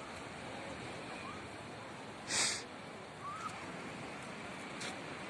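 Sea surf breaking and washing on the shore, a steady rush of water with a brief louder burst about two seconds in.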